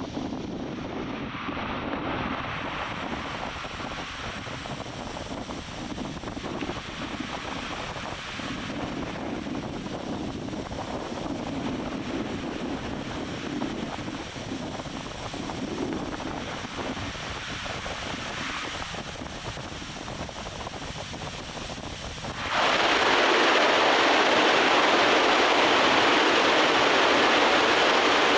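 Launch-mount top-deck water deluge system spraying: a steady rushing of water, which jumps suddenly to a louder, brighter hiss about two-thirds of the way in.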